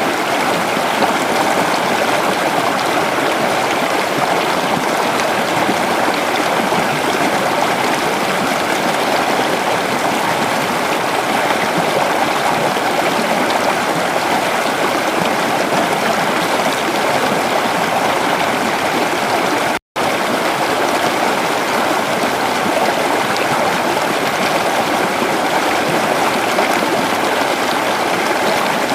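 Creek water flowing in a steady, even rush. It cuts out completely for an instant about two-thirds of the way through.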